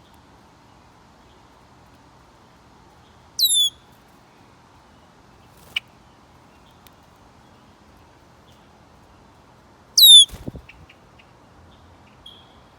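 A songbird at a feeder gives two short, sharp downward-slurred calls about six seconds apart. A few soft knocks follow the second call.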